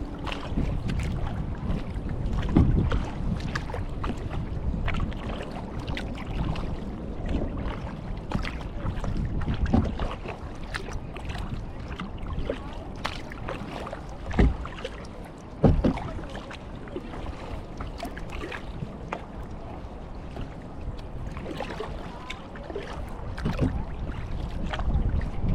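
Kayak paddling: paddle blades dipping and splashing in the water, with dripping, and a few louder sharp thumps or splashes scattered through.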